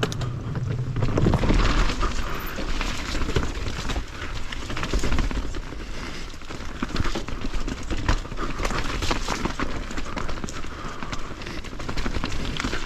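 Mountain bike ridden over a wet, rough trail: tyres rolling over wet ground, the bike rattling with frequent clicks and knocks, and a low rumble of wind on the microphone.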